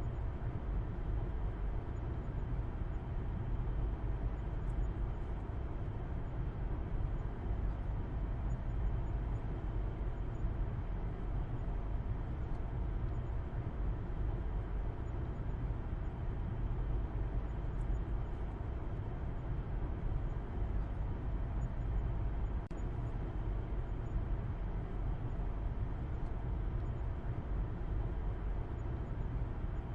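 Steady low rumble of a car driving at an even speed, with engine and road noise.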